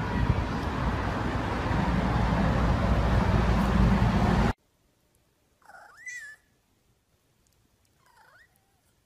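Domestic cat meowing twice: one longer meow that rises and falls in pitch, then a shorter one about two seconds later. Before that, a loud steady rushing noise cuts off suddenly.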